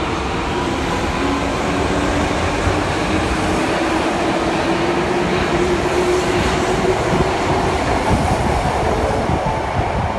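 Osaka Metro Midosuji Line subway train running loudly through the underground station: a steady rumble of wheels on rail, with an electric motor whine that rises slowly in pitch over several seconds.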